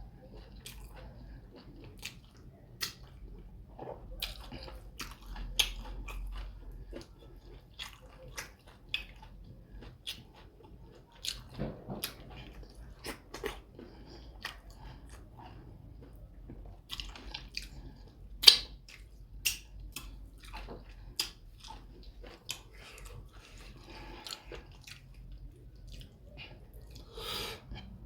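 Close-miked eating of fufu with soup: wet chewing and lip-smacking, with many irregular sharp mouth clicks and smacks, the loudest about two-thirds of the way through.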